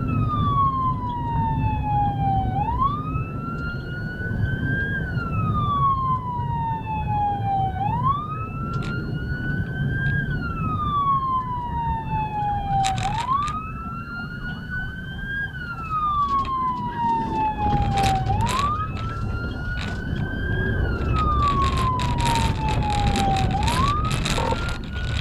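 Police car siren on wail, its pitch climbing and then falling slowly about once every five seconds, over the low rumble of a moving vehicle. There are a few sharp clicks about halfway through and a burst of crackling near the end.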